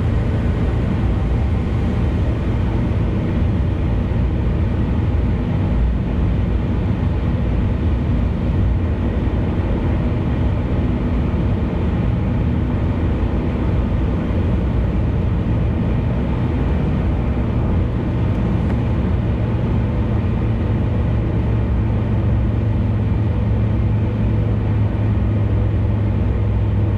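Car travelling at expressway speed: steady road and engine noise, with a constant low hum.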